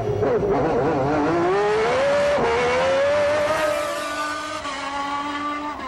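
Honda RA121E V12 of the 1991 McLaren MP4/6 Formula One car accelerating hard. The engine note wavers at first, then climbs, breaks for an upshift about two and a half seconds in, and climbs again before levelling off and growing quieter. Another gear change drops the pitch near the end.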